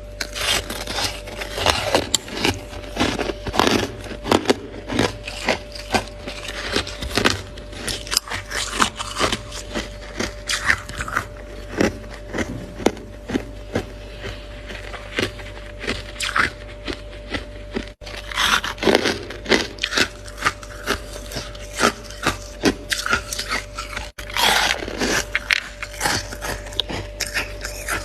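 Freezer frost crunching and scraping in quick, irregular sharp crunches, with a faint steady hum underneath.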